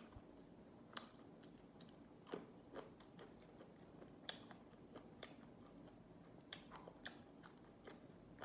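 A person chewing and biting crunchy raw vegetables up close, with irregular crisp crunches about once or twice a second over a low steady hiss.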